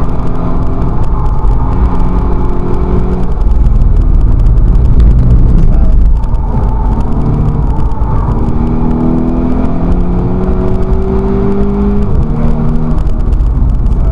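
Volkswagen Scirocco race car engine heard from inside the cabin, pulling hard through the gears over heavy road rumble. It climbs steadily in pitch for a few seconds, then drops at a gear change near the end.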